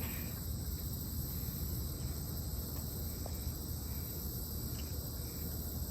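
Steady high-pitched chorus of insects chirring, with a low rumble underneath.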